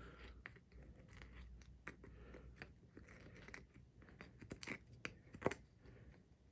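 Chisel scraping and paring out the centre hole of a hole-saw wheel to make room for a nut: faint, irregular scrapes and small crunches, with a sharper click about five and a half seconds in.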